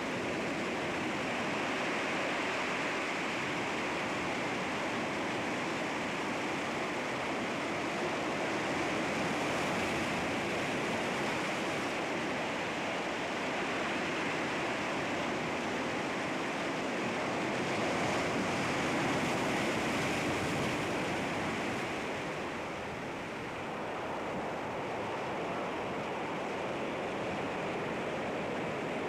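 Sea waves washing against rocks: a continuous rush of surf that swells a little about two-thirds of the way through, then eases briefly.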